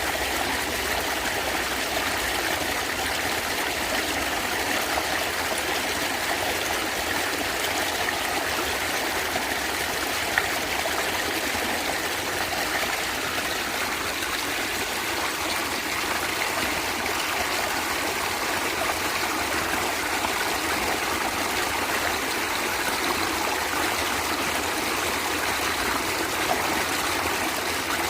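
A stream of water running and gurgling steadily.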